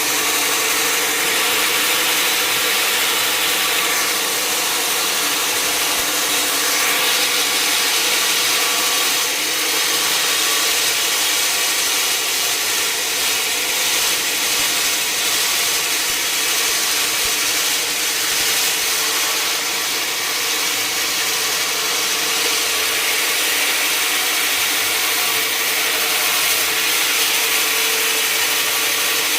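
Sawmill saw cutting lengthwise through a large log, a steady loud whine and rasp of the blade in the wood without a break.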